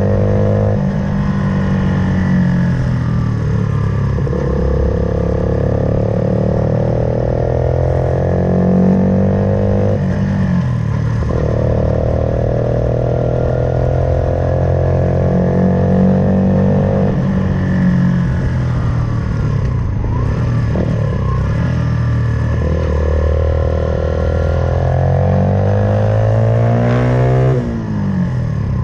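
Suzuki Van Van 125's single-cylinder four-stroke engine, fitted with an aftermarket full exhaust system, running under way. The engine note climbs steadily and drops back sharply several times, then falls away near the end.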